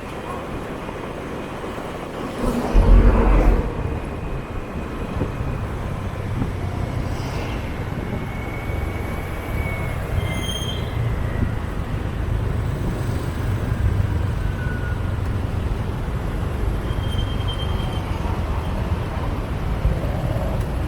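City street traffic heard from a moving motorbike: a steady low rumble of engine and road noise, with a louder rush of noise about three seconds in and a few brief high tones from the surrounding traffic.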